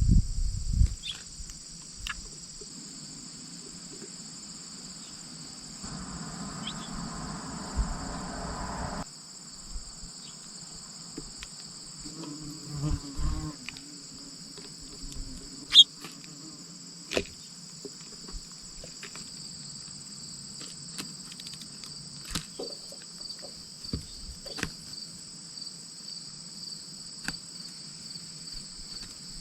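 Steady, high-pitched chorus of crickets, with scattered sharp taps and clicks over it, the loudest about halfway through.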